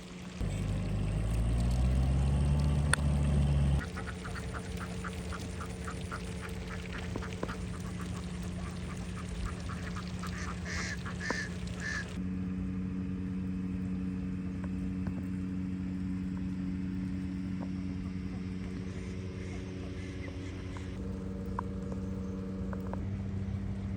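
A flock of domestic ducks quacking, over the steady hum of a motor. In the first few seconds the motor is loud and rises in pitch, then settles into a steady hum.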